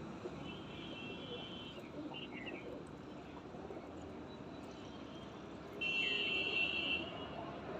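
Birds calling: two high, buzzy calls about a second long, the second one louder, each followed by short falling chirps.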